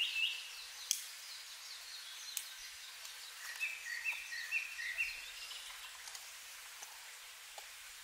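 A wild bird singing clear whistled notes. About three and a half seconds in it gives a phrase of some six quick notes that alternate between a higher and a lower pitch. Two sharp clicks come in the first few seconds.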